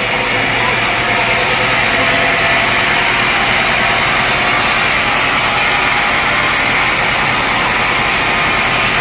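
Sawmill machinery running steadily with a constant high hum.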